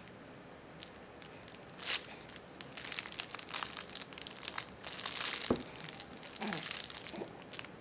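A baby's crinkly rustling toy being crumpled and shaken by hand, in irregular crackling rustles that start about two seconds in and grow denser.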